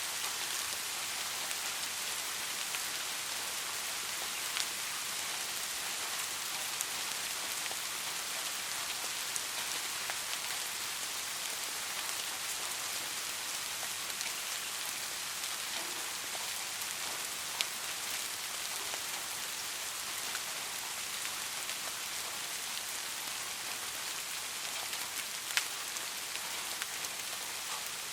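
Steady rain falling on a street, a constant hiss with a few louder drops ticking now and then.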